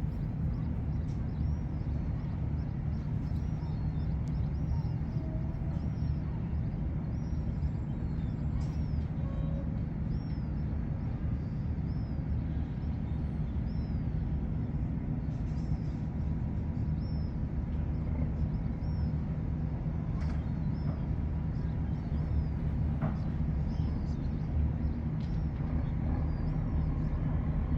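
Steady low hum of a ship's engine running, with repeated short high chirps above it.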